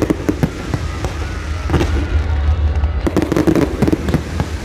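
Fireworks going off in quick succession: a rapid string of sharp bangs and crackles over a steady low rumble.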